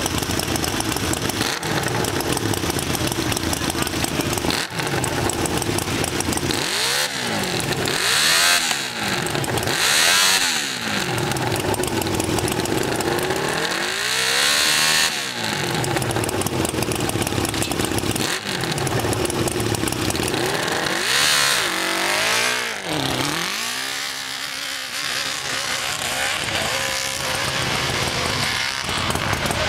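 Kawasaki hillclimb dirt bike with an extended swingarm idling, with the throttle blipped into about six sharp rising-and-falling revs. After the last rev it pulls away and runs hard up the hill.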